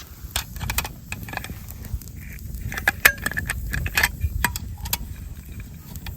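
A string of small metallic clinks and knocks, irregular and close together, over a low outdoor rumble.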